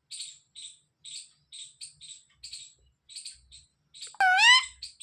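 Faint short high chirps repeating about three times a second, then about four seconds in a loud call from the talking parrot that rises in pitch.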